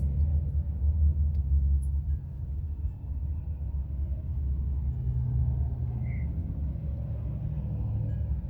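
Low, steady rumble of road traffic, with the engine drone of passing vehicles rising and fading slightly.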